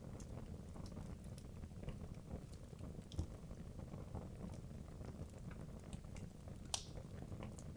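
Wood logs burning in a fireplace: a low steady rush of flame with scattered sharp crackles and pops, one louder pop near the end.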